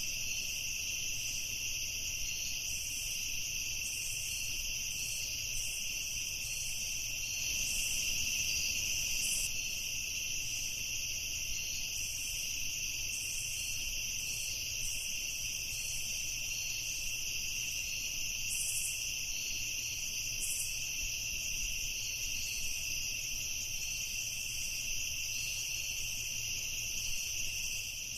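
Night chorus of crickets, a steady, continuous high-pitched trilling in several overlapping pitches, with a faster flickering chirp layer above them.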